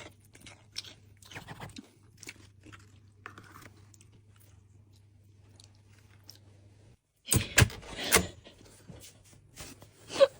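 Close-up crunchy chewing and biting of crisp pastry: faint, irregular crunches over a low steady hum. About seven seconds in the sound cuts out, then several louder sharp clicks and rustles follow.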